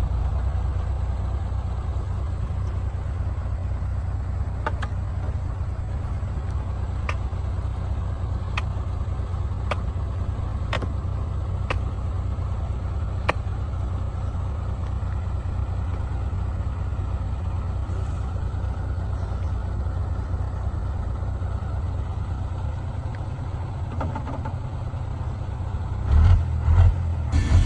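Heavy diesel engine running steadily at a low rumble. A string of sharp clicks comes about once a second in the first half, and a few louder low thumps come near the end.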